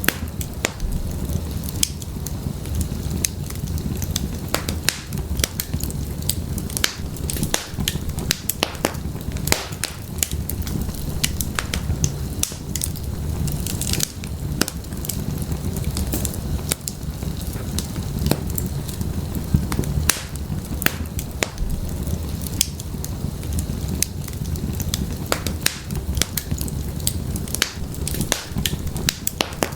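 Wood fire burning in a fireplace, crackling and popping at irregular moments over a steady low rumble of the flames.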